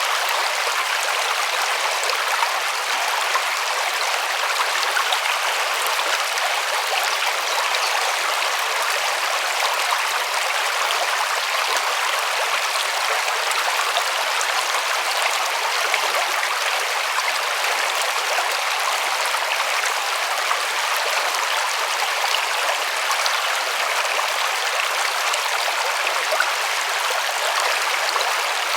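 River water running over rocks: a steady, even rush with fine splashing and no change throughout.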